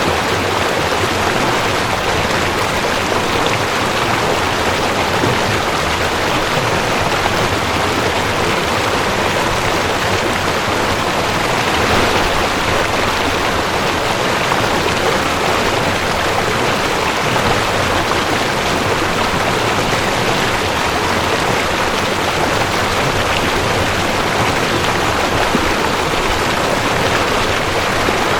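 Mountain stream rushing over rocks: a steady, even hiss of moving water.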